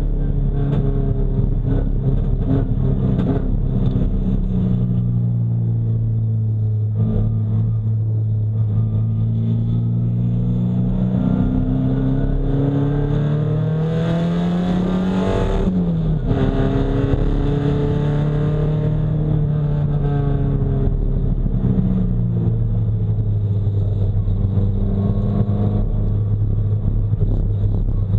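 Nissan 240SX race car's engine heard onboard at racing speed. Its note climbs steadily for several seconds to a peak about halfway, with a brief rush of noise, then drops sharply and runs on at a steadier, lower pitch.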